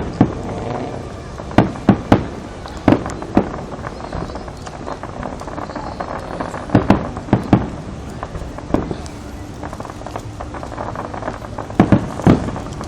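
Fireworks going off: a string of sharp bangs at irregular intervals, some in quick doubles and triples, over a steady murmur of background noise.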